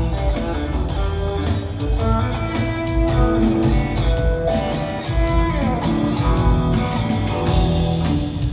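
Live rock trio playing an instrumental passage: guitar notes, some bent or slid, over bass guitar and a drum kit.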